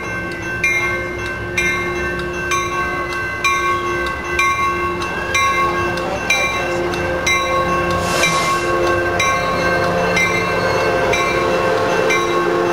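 Coaster commuter train pulling into the station, cab car leading. Its Nathan K5LA horn sounds in long chords that break and resume, while a bell strikes about once a second. Near the end the noise of the cars rolling close past builds up.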